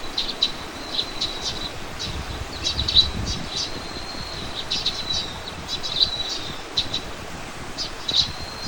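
Small birds chirping, with quick high chirps coming every fraction of a second over a thin, held high note, and a faint low rumble of wind underneath.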